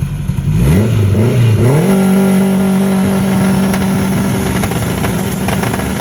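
Turbocharged K24A four-cylinder engine in a 1996 Honda Prelude being revved: the pitch rises twice about a second in, then holds at a steady raised engine speed.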